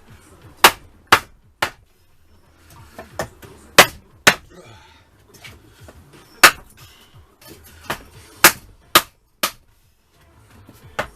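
Hammer blows on the cylinder barrels of a seized Yamaha FZR1000 engine, driving them off rusted pistons: about a dozen sharp strikes, mostly in runs of two or three about half a second apart.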